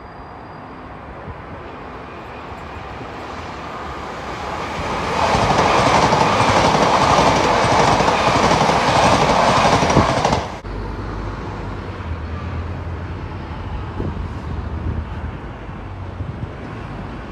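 A Class 345 electric multiple unit passing on the main line. Its running noise grows louder as it approaches and is loud and rushing for about five seconds as it passes, then cuts off suddenly about ten seconds in, leaving a low rumble as the train draws away.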